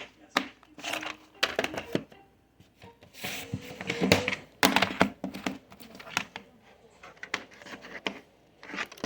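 Handling noise: a run of sharp clicks, taps and knocks, with an indistinct voice in the middle.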